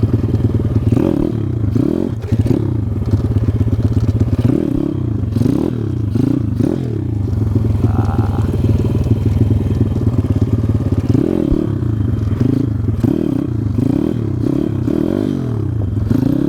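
Pitster Pro pit bike engine revved hard in first gear and dropping back, the pitch rising and falling several times over as for wheelies.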